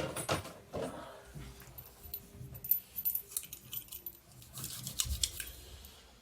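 Brass cartridge cases clinking as they are handled and picked through: a run of small, irregular metallic clicks.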